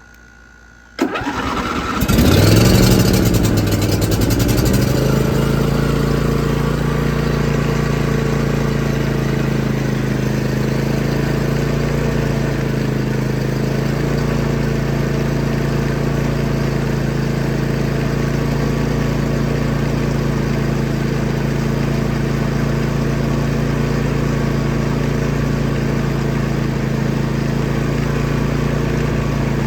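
Old John Deere tractor engine cold-started after sitting over a week: the starter cranks for about a second, the engine catches and runs fast and uneven for a few seconds, then settles into a steady run.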